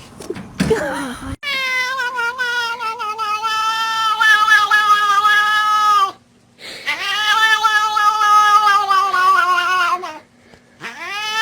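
A cat yowling in long drawn-out calls: two of about four seconds each and a third starting near the end, each slowly falling in pitch.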